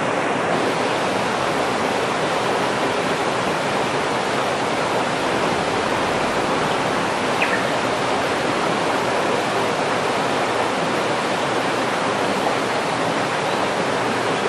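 Steady rushing of a stream or river: an even, unbroken water noise.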